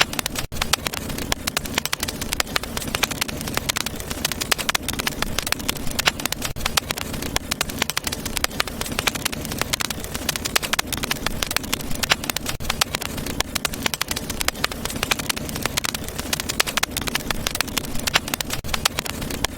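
Wood fire crackling in a fireplace: a dense, irregular run of small pops and snaps over a steady low rush of flame.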